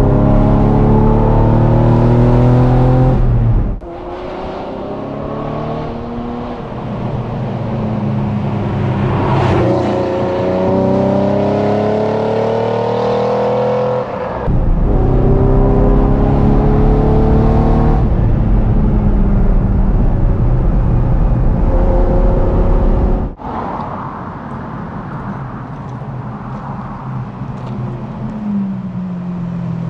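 1991 Ferrari Testarossa's flat-12 engine breathing through a decat pipes and QuickSilver sport exhaust setup, very loud, heard in several cut-together stretches. The revs climb again and again as it accelerates, and the pitch falls away near the end.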